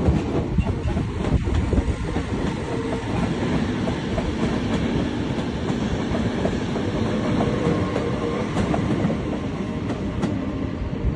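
Train running on the tracks of a large station below: a steady, continuous rumble with a faint steady hum.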